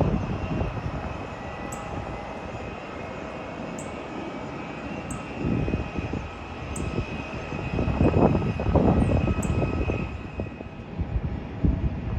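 Jet airliner engines whining steadily at several pitches, with wind gusting on the microphone in low surges; the whine fades near the end.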